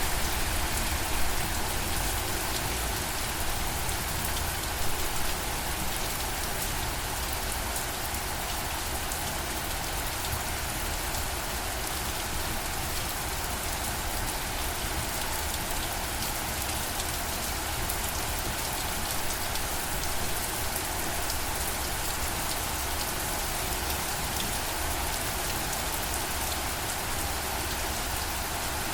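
Steady rainfall, with fine raindrop ticks in an even hiss. A few drops land louder in the first few seconds.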